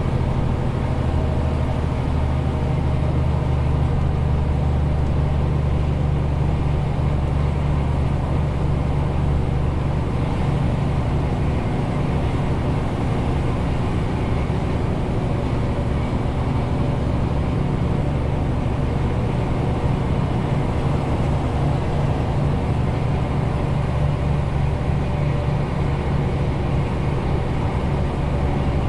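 Renault T520 truck's six-cylinder diesel engine running steadily with a low drone, the truck loaded to 40 tonnes, over a constant hiss of road and tyre noise.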